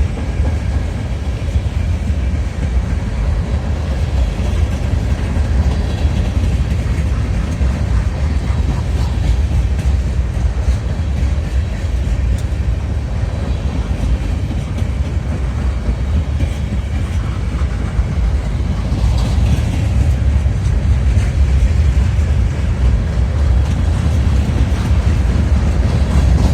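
Freight train cars rolling past, a steady low rumble of steel wheels on rail that grows slightly louder near the end.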